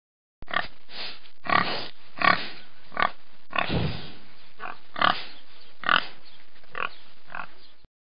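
A pig oinking: about a dozen short calls in an irregular series over steady background noise, starting about half a second in.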